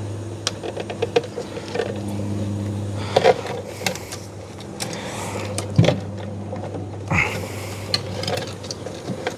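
Irregular plastic clicks, knocks and rattles of a fuel pump being pressed and turned by hand into its plastic pump bracket, with one sharper knock a little past halfway, over a steady low hum.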